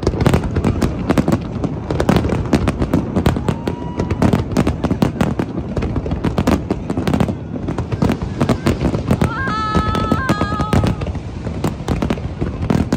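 Grand-finale fireworks going off in rapid, continuous bursts, a dense crackle of bangs with hardly a gap. About ten seconds in, a short high tone rises and falls in steps over the bangs.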